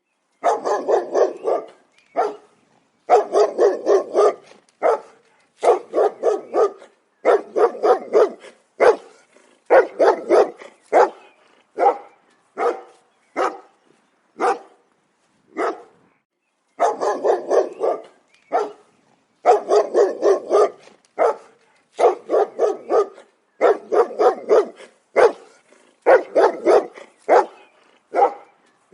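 Dog barking in quick runs of several barks, each run cut off by a short silence before the next.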